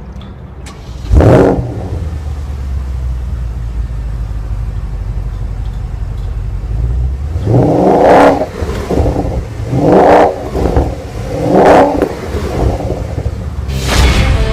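2014 Porsche Panamera GTS's 4.8-litre V8 starting with a loud flare about a second in, then settling to a steady idle. It is then revved three times, about two seconds apart, with another rise near the end.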